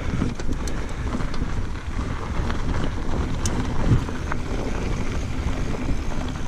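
Wind rushing over the microphone and a mountain bike rolling over a dusty dirt trail, a steady rumble with a few small clicks and rattles.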